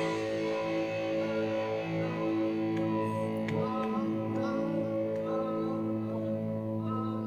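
Guitar music: a held chord ringing on, with a few new notes picked over it.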